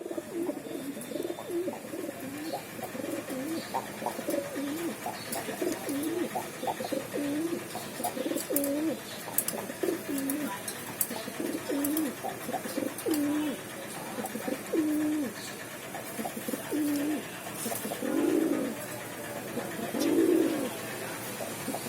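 Domestic pigeons cooing in a loft, a steady run of short overlapping coos about once a second, with three longer, louder coos near the end. Faint clicks and scuffles sound over them.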